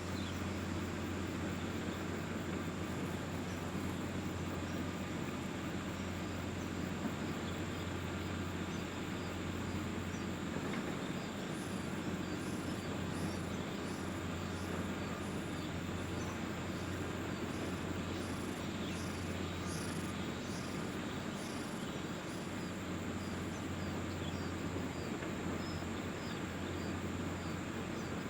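Outdoor natural ambience: a steady low hum and hiss, with an insect chirping high and rhythmically, about one to two chirps a second, becoming clear about ten seconds in.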